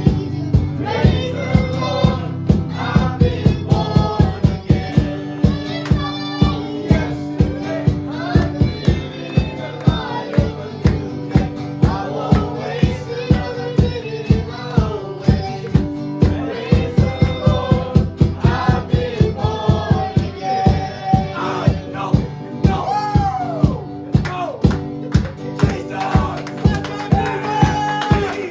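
Worship band music: voices singing a melody over held low chords and a steady beat.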